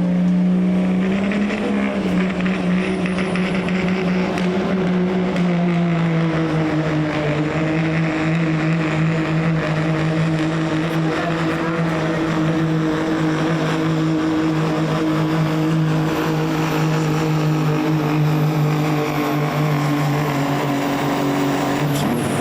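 Diesel engine of a pulling truck or tractor running flat out under load, holding a steady high pitch with a slight dip a few seconds in, then falling sharply right at the end.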